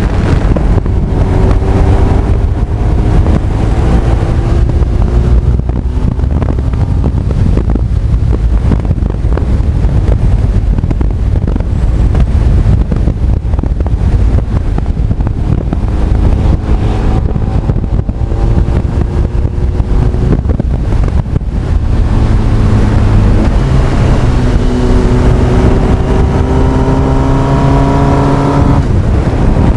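Honda CB1300 Super Bol d'Or's inline-four engine pulling on the move, its pitch climbing through a gear, falling back at the shift and climbing again several times. Heavy wind rush on the microphone runs underneath.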